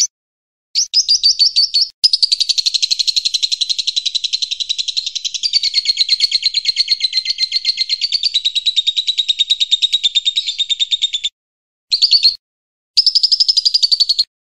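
Bird song: a rapid trilling chatter of about twenty notes a second, running unbroken for about nine seconds, breaking off near the end, then a short burst and a fresh trill.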